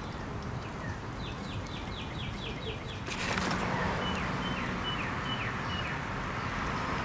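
A songbird outdoors singing two phrases of short, quick, downward-slurred high notes, about seven notes to a phrase. About three seconds in, a steady rush of background noise swells up under the second phrase.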